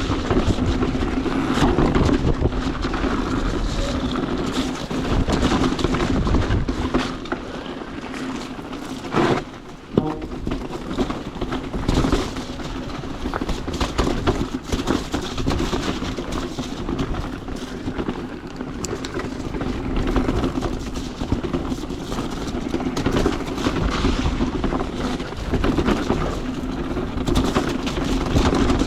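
Ride noise from an electric mountain bike on a rough trail: a steady motor hum with wind noise and frequent knocks and rattles from the bike over the ground, and a sharp knock about ten seconds in.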